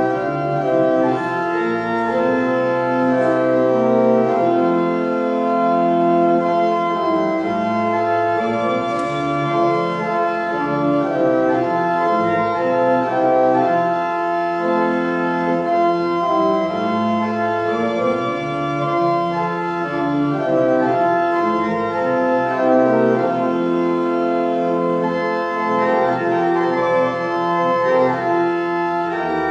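Church organ playing a slow piece of held chords that change every second or two.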